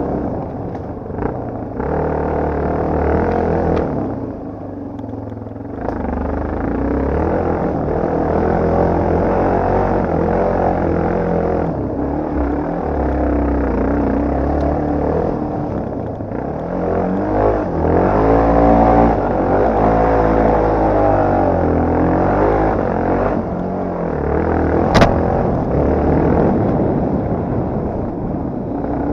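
Yamaha TT250R's single-cylinder four-stroke engine running as the bike is ridden, its pitch rising and falling with the throttle, with one sharp knock near the end.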